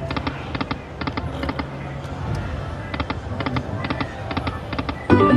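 Aristocrat Lightning 10 Year Storm slot machine spinning its reels: a quick run of short electronic chiming ticks, several a second, over casino background. Near the end comes a louder burst of ringing tones.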